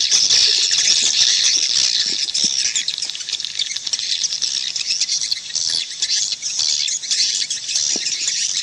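Dense chorus of swiftlets chirping and twittering, a continuous high, fluttering chatter: a swiftlet call recording of the kind played from a swiftlet house to lure the birds in to roost and nest.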